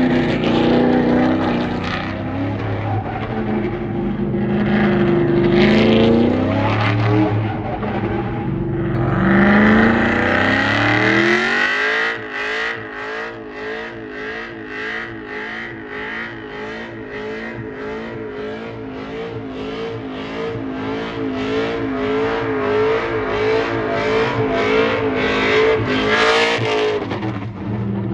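Pickup truck engine revved hard during a burnout, the pitch climbing in several pulls, with a tire-squeal band coming in about a third of the way through. Past the midpoint the engine settles into a rhythmic rise and fall about twice a second, held at high revs.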